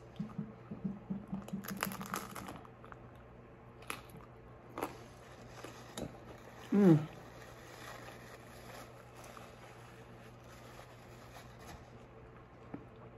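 Close-miked chewing and crunching of a vegetable taco: a run of small crackles, then a few separate crunches. About seven seconds in comes a short hum from the eater, falling in pitch, the loudest sound here.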